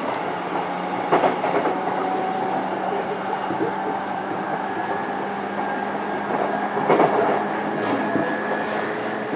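Inside a JR East E233-7000 series commuter electric train, a motor car, running along the line: a steady hum of the running gear and wheels on rail. There are louder wheel clacks about a second in and again around seven seconds.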